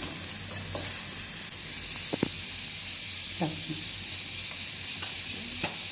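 Onions and spices frying in hot oil in a pot, a steady sizzle, with a spoon clicking against the pot a few times.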